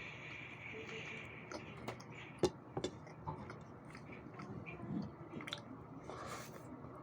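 Close-miked mouth noises of someone eating pork steak and rice: quiet chewing with small wet clicks, and a few sharper clicks in the middle. A faint steady high hiss stops about a second in.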